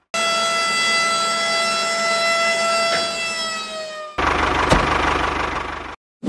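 A long horn blast, held on one steady note for about four seconds before its pitch sags at the end. An engine-like running noise with a low hum follows for about two seconds and cuts off suddenly.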